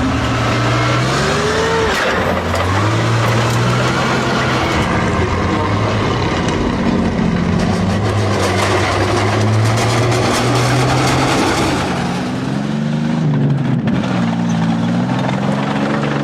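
Tank on the move: its engine note rises and falls as it revs, with clanking of metal tracks over it, thickest in the middle.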